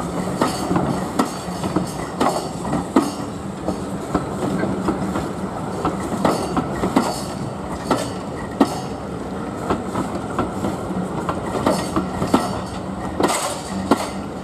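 A train's carriages rolling along the track, their wheels clicking irregularly over rail joints, with a steady hum underneath.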